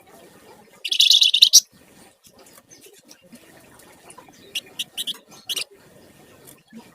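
Javan fulvetta (flamboyan) singing: a loud, rapid, high trilled burst about a second in lasting just over half a second, then four short sharp chirps around five seconds.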